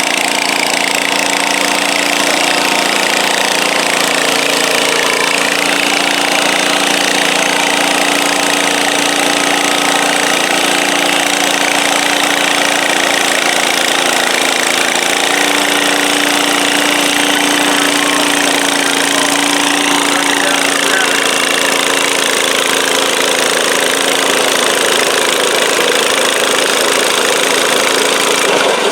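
Small single-cylinder-class garden tractor engine running steadily under load during a pull, loud and unbroken, its pitch shifting slightly about halfway through.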